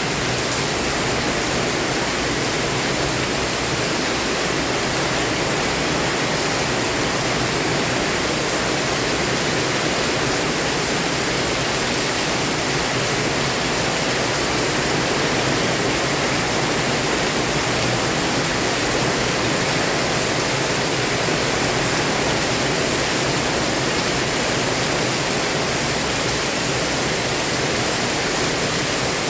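Heavy rain pouring down in a steady, dense hiss with no breaks or single drops standing out.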